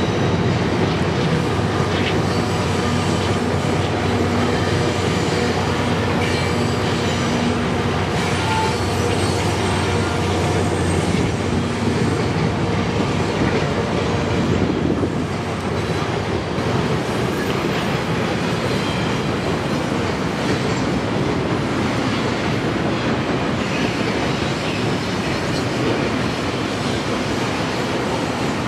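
Loaded coal train rolling across a steel arch bridge: a steady rumble and clatter of hopper-car wheels on the rails. A mid-train diesel locomotive adds a faint steady hum that fades out about twelve seconds in.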